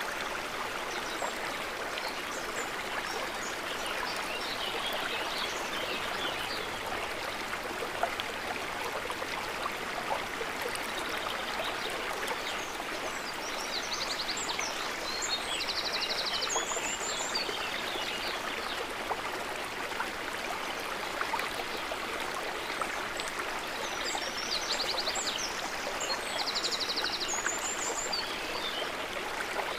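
Water trickling steadily, a gentle stream-like flow. Twice, small birds chirp high above it, with a short buzzy trill among their calls.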